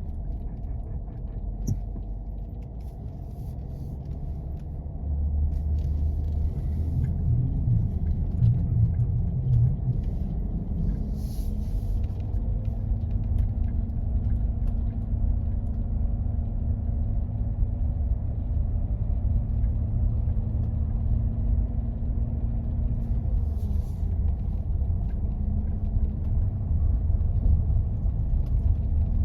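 Jeep driving on snow-covered roads: a steady low rumble of engine and tyres that gets louder about five seconds in.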